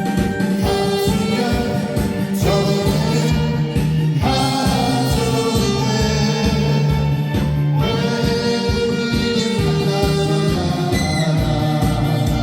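Saxophone playing a slow melody of long held notes over a backing track with a steady beat.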